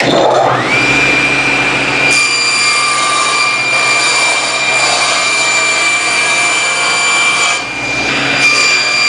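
A power saw's motor spins up with a rising whine to a steady high pitch, then runs on through a cut in a Masonite hardboard skin. The level dips briefly near the end.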